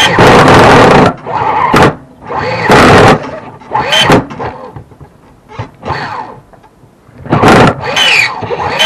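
An RC buggy's nitro engine being cranked on an electric starter box in a string of short, loud bursts, the starter wheel whirring and squealing against the flywheel without the engine catching. The starter wheel is not seating properly on the flywheel.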